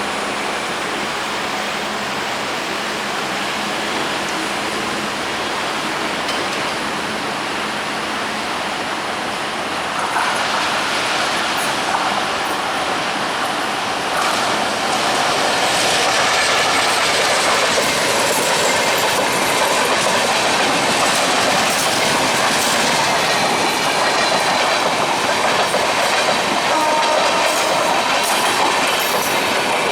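Diesel-hauled passenger train running past, its wheels clattering steadily over the rail joints; the sound grows louder about a third of the way in and again around halfway.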